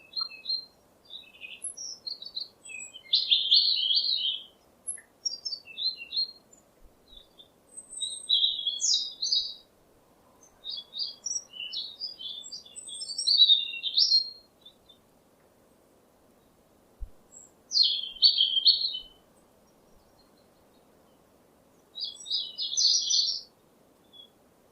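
Songbird singing: a series of short, quick chirping phrases with pauses between them, the longest gap a few seconds from about 15 s to 17 s.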